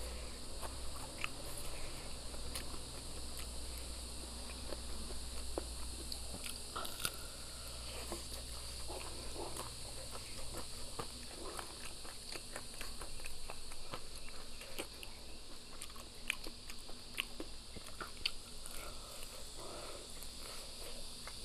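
Close-up chewing and biting of a fried chicken drumstick, with many short crisp clicks from the fried coating and wet mouth sounds as the meat is pulled from the bone and eaten.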